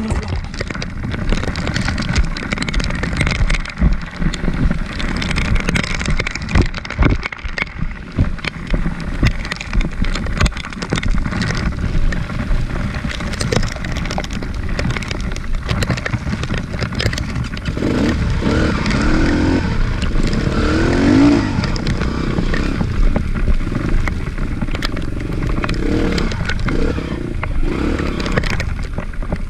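Trail motorcycle engine running over rough ground, with many scrapes and knocks; the engine note rises and falls about two-thirds of the way through.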